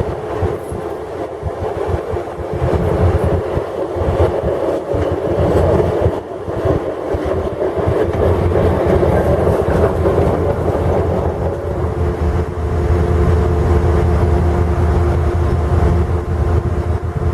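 GE 44-ton switcher locomotive moving light along the track, its twin diesel engines running steadily with a low rumble and wheel noise on the rails.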